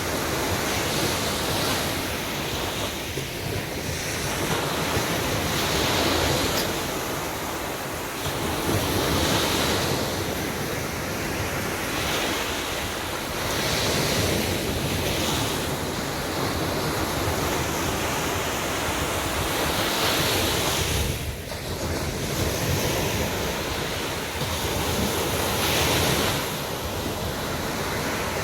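Sea waves breaking and washing up a beach, the surf swelling and ebbing every few seconds, with wind buffeting the microphone.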